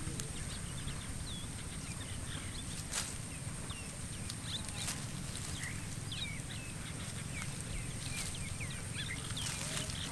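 Outdoor animal sounds: many short, high, sliding chirps scattered throughout, over a steady high thin tone and a low rumble, with a few sharp clicks.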